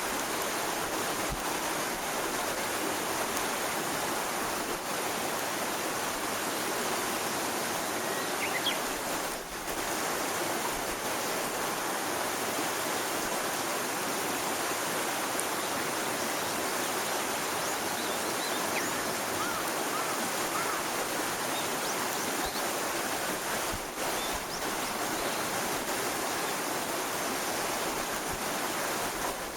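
Steady, even rushing noise, like flowing water, with a few faint short chirps about halfway through.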